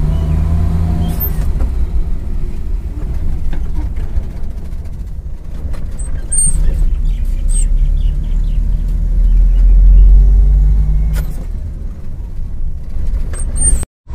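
Maruti Omni van's small three-cylinder engine and tyre noise heard from inside the cabin while driving slowly in a low gear: a steady low rumble that swells about ten seconds in. The sound drops out briefly near the end.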